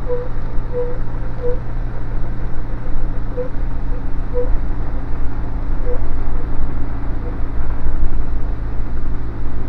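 Diamond DA20 Katana's Rotax four-cylinder engine running steadily at taxi power, heard inside the cockpit, with short high blips now and then during the first two-thirds.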